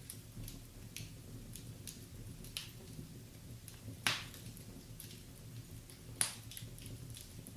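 Wood fire crackling in a fireplace: irregular small ticks and sharp pops, the loudest about four and six seconds in.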